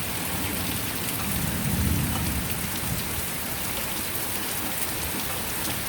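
Heavy rain coming down steadily, with a low rumble, likely distant thunder, swelling about a second in and fading by about two and a half seconds.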